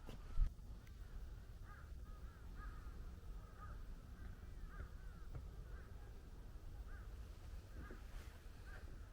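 Birds calling outdoors: short, repeated arched calls, one or two a second, over a low rumble of wind or handling noise, with a single thump about half a second in.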